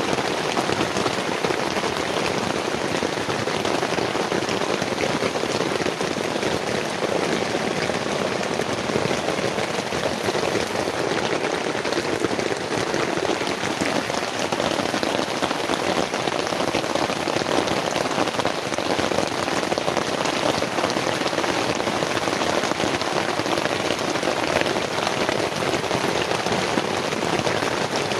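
Heavy rain pouring steadily onto a camping tent, a dense unbroken patter.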